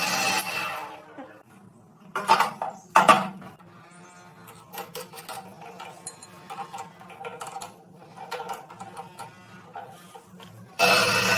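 Metal parts and tools being handled on a workbench: scattered light clinks and taps, with two louder knocks about two and three seconds in.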